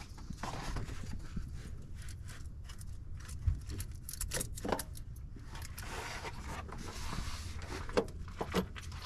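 Metal tools and parts knocking, clinking and scraping during hands-on work in an engine bay, with one sharp knock about three and a half seconds in and a few more near the end.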